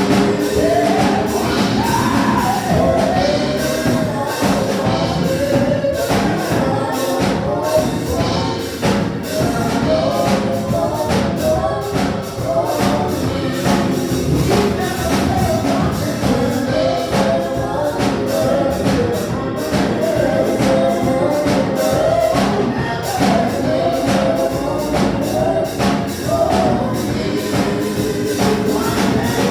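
Gospel praise team singing with a steady beat from tambourine and percussion.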